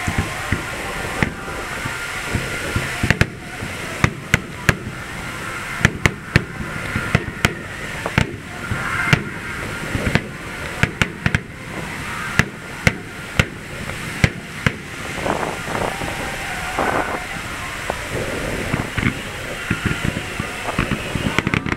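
Aerial firework shells bursting in a finale barrage: an irregular, continuous run of sharp bangs, about one to two a second, over a steady background rumble.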